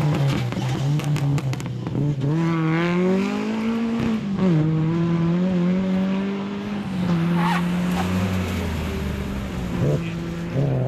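Rally car engine revving hard under acceleration: the pitch climbs and drops sharply at each gearchange, several times in a row.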